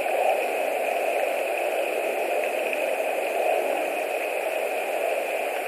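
Strong wind blowing across a nest camera's microphone: a steady rushing noise that swells and eases only slightly.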